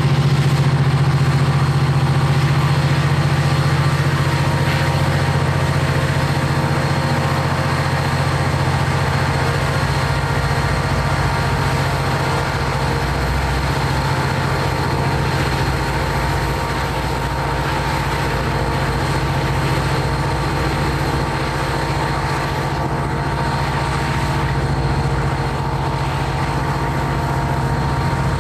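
Heavy diesel engines of a rotary snow plow train running steadily, a continuous low drone that barely changes.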